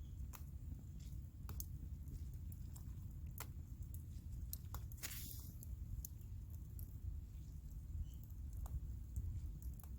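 Wood campfire crackling: scattered sharp pops, a louder one about halfway through, over a steady low rumble.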